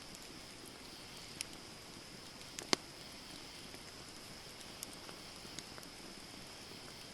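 Wood campfire burning: scattered sharp crackles and pops from the burning wood over a steady low hiss, the loudest pop about two and a half seconds in.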